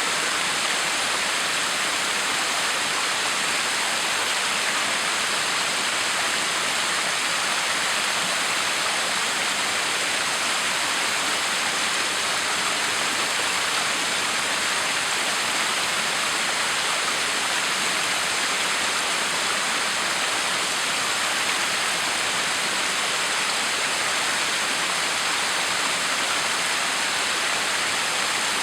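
Backyard waterfall: water falling and splashing in a steady, unbroken hiss that sits mostly high in pitch.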